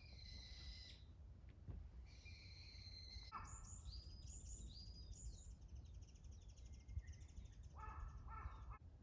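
Faint birdsong: several high chirping phrases and a fast trill from small birds, over a low steady background rumble.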